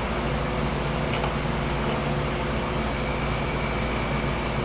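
Hydraulic press's power unit, an electric motor and pump, running at a steady hum between press strokes, with a faint click about a second in.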